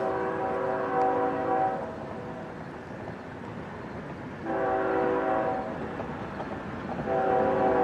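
Diesel locomotive air horn sounding several blasts with a steady chord of notes: one ending a couple of seconds in, a shorter one around the middle, and another starting near the end. Train rumble fills the gaps.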